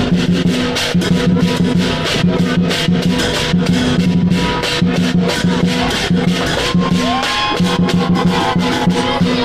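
Lion dance percussion: a drum and clashing cymbals beating a fast, steady rhythm.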